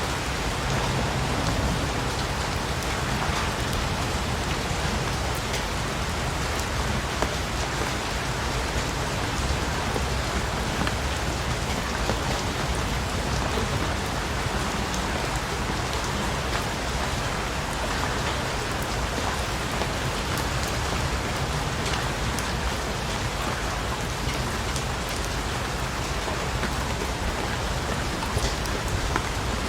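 Steady rain falling on a surface, a constant hiss with many individual drops pattering through it.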